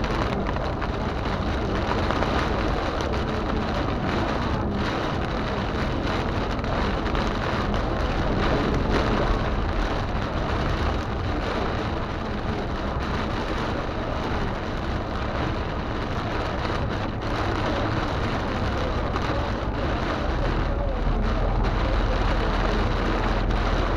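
Heavy rain pelting a moving car, heard from inside, with the car's low road rumble underneath that grows stronger near the end.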